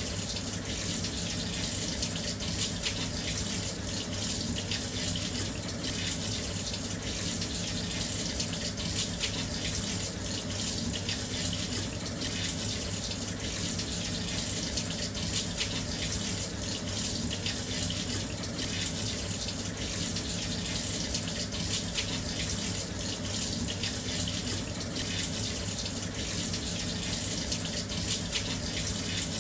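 Washing machine filling with water: a steady, even rush of water pouring into the drum, with a faint low hum underneath.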